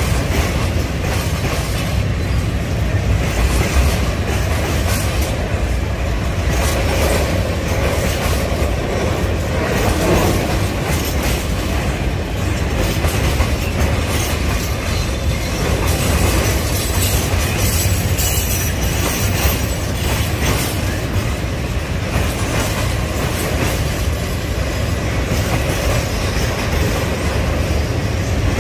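Railway train running on the track: a steady, loud rumble of wheels on rails, with clacks as the wheels cross the rail joints.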